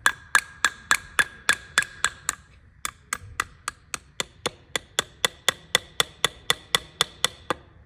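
Hammer tapping on a freshly painted metal brake bracket assembly, light even strikes about four a second with a metallic ring after each, pausing briefly about two and a half seconds in. The taps are kept gentle so as not to chip the new paint.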